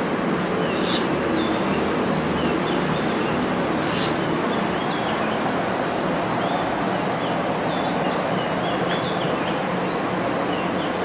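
Steady outdoor background noise with small birds chirping in short, scattered calls and a couple of light clicks.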